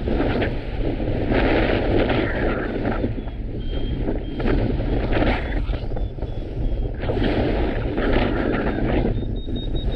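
Wind buffeting the microphone in gusts. Behind it a paragliding variometer keeps up rapid high beeps, and their pitch climbs slightly near the end, the vario's signal of rising lift.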